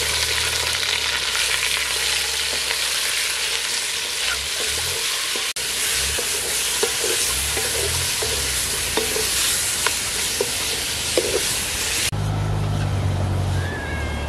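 Chicken pieces frying in hot oil in an aluminium pot, sizzling steadily while a wooden spoon stirs them, with light knocks and scrapes of the spoon against the pot. About twelve seconds in the sizzle cuts off, giving way to a low steady hum.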